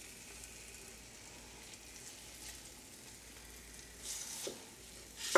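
Flour-dredged short ribs sizzling steadily as they sear in a hot pot, with a briefly louder burst of sizzle about four seconds in.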